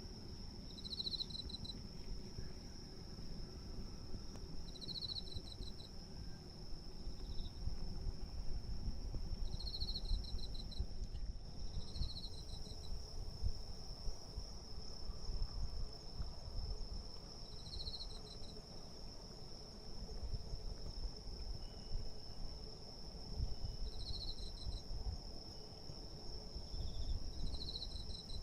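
Evening insect chorus: a steady high trill runs throughout, and short pulsed chirps, like those of a cricket, come every two to four seconds. A low rumbling noise lies underneath.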